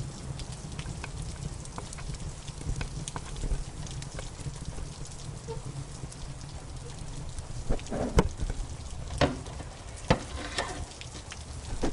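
Wood fire crackling in a fireplace, with scattered small snaps over a steady rain-like hiss and low rumble; a run of louder pops and snaps comes about eight seconds in.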